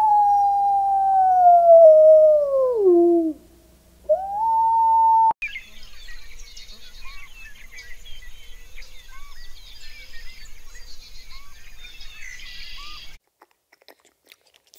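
A long, loud animal howl that slides steadily down in pitch over about three seconds, then a second one rising that cuts off abruptly. After that comes a dense chorus of many small birds chirping and twittering for about eight seconds, which also stops abruptly.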